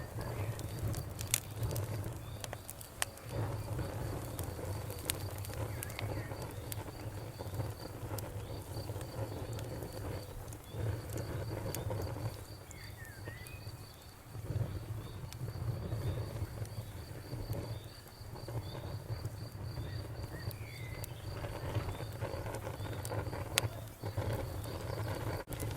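Bonfire crackling with scattered sharp pops over a low rumble that dips briefly a few times, while crickets chirp in a fast, even, high-pitched pulse.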